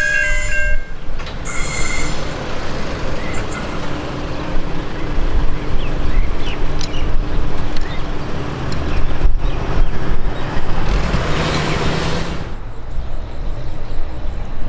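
Passenger train running past with wheel and rail rumble and some high squeals, after a short horn toot about two seconds in. The higher noise drops away suddenly near the end as the train clears.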